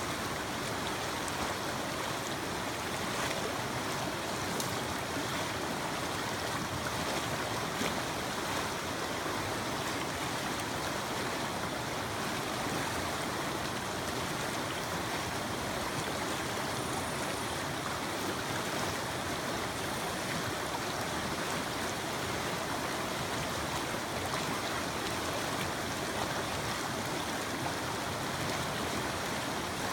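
Mountain creek rushing over rocks, a steady even water noise.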